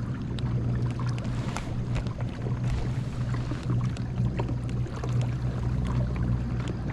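Kayak's electric trolling motor running with a steady low hum, with light clicks and knocks over it.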